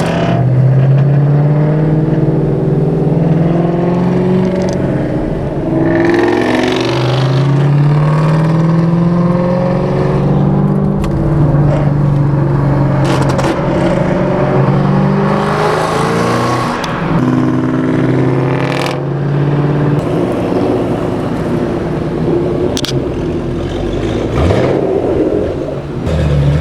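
Muscle car V8 exhaust heard while driving with the window down, the engine note climbing under acceleration and dropping back several times as it pulls through the gears.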